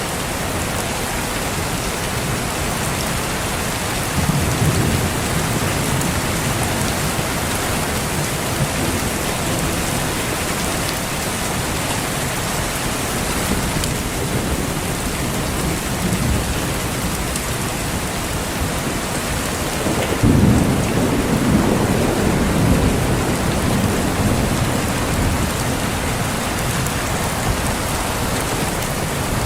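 Steady rain with two rolls of thunder: a softer rumble about four seconds in, and a louder one that breaks sharply about twenty seconds in and rumbles on for a few seconds.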